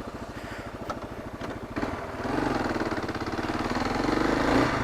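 Kawasaki KLR 650's single-cylinder four-stroke engine idling with an even pulse, then about two seconds in the throttle opens and it revs up as the bike pulls away.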